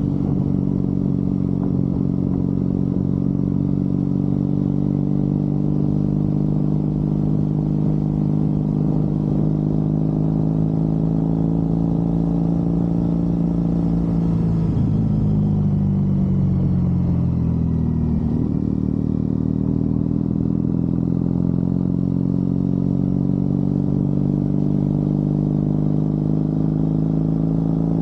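Triumph Bonneville parallel-twin engine pulling steadily on the road. Its note falls from about halfway through, then climbs steadily again as the bike accelerates.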